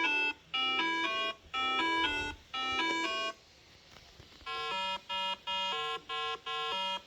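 An electronic beeping tune of short, clear notes stepping between pitches: four quick runs, a pause of about a second, then a faster repeating phrase.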